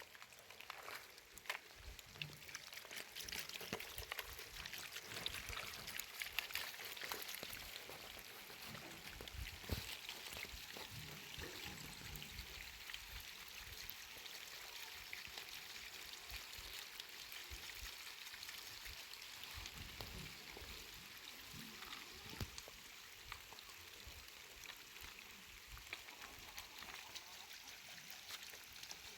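Steady rain falling, a hiss of many fine drops pattering, with a few scattered low thumps.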